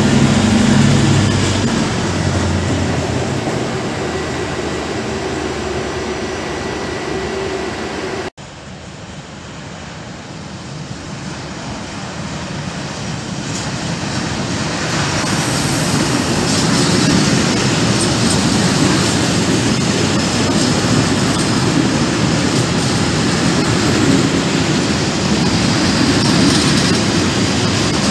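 A Minuetto diesel regional railcar pulling out, its engine running. After a sudden cut, a freight train of hopper wagons hauled by an ÖBB Vectron electric locomotive rolls past, the wheels rumbling and clattering on the rails, building over several seconds and then holding steady.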